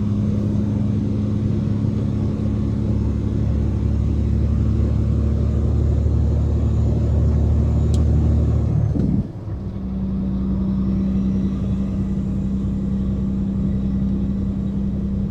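A truck's diesel engine running steadily with a low rumble. About nine seconds in, the sound briefly dips and the deepest rumble drops away, then the engine settles back to a steady note.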